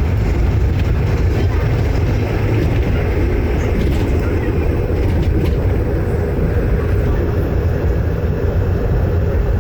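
Steady low rumble of a motor vehicle driving, heard from inside: engine and road noise.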